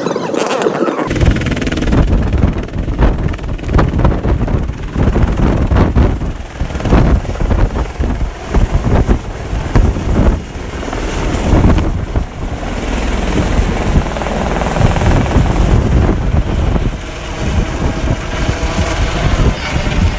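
Helicopter running close by, its turbine and rotor sound mixed with a heavy, gusty rumble of rotor wash buffeting the microphone, which sets in about a second in.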